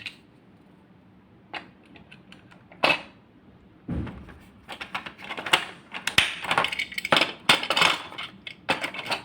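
Plastic toy train cars being handled and coupled to the locomotive: a few separate clicks, then busy, irregular clicking and clattering of hard plastic from about halfway through.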